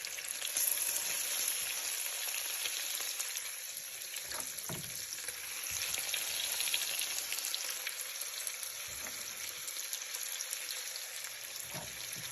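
Bacon and chopped peppers sizzling and frying in olive oil in a pan, a steady high hiss, with a few faint knocks of stirring.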